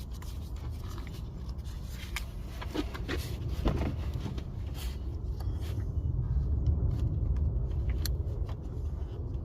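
Scattered light clicks and scraping as a plastic wiring connector is worked onto fuel injector number 3, over a low steady rumble. The injector was left unplugged after an engine swap, which caused the cylinder 3 misfire.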